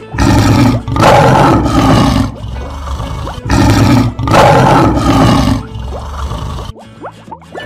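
Lion roar sound effect, heard twice: each roar lasts about two seconds and comes in two surges, with the second roar starting about three and a half seconds in. Light plucked music plays faintly underneath.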